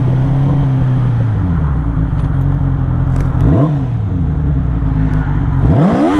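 1996 Suzuki Katana 600's inline-four engine under way: the revs hold steady, drop away, rise and fall briefly, then climb sharply near the end as the bike accelerates.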